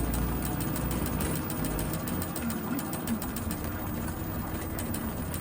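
Bicycle making a rapid, even clicking while being ridden, several clicks a second. This is the irritating bike noise that the rider later found the fix for.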